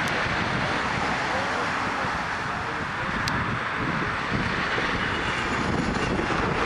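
Jet airliner's engines giving a steady, broad roar as it passes the runway end.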